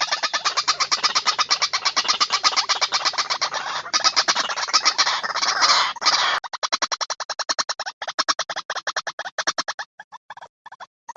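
Recorded white-breasted waterhen (ruak-ruak) calls played as a bird lure: a fast, unbroken train of harsh notes at about ten a second. About six seconds in the sound cuts sharply to a thinner series with brief gaps, where the recording loop splices.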